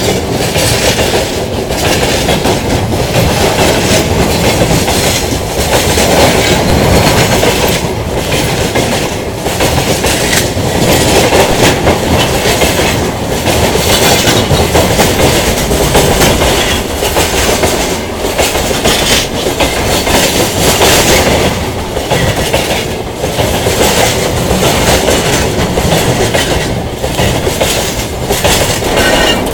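Long freight train of railway wagons rolling past at close range, with wheels clattering over the rail joints. The steady loud rumble dips briefly at fairly even intervals as wagon after wagon goes by.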